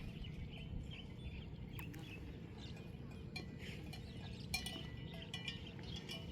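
Bells on a buffalo herd clinking irregularly, with short high chirps, over a steady low rumble; the clinks come thicker near the end.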